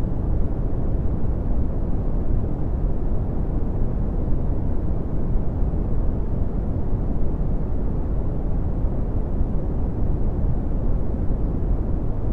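Red (Brownian) noise: a steady, deep rumbling hiss whose power falls away toward the high frequencies, unchanging throughout.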